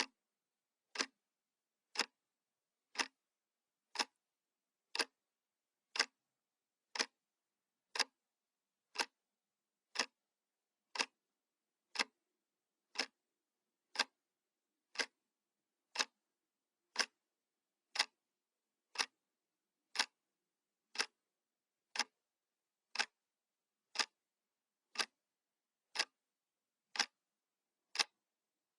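Analog clock ticking, one sharp tick each second, steady and even.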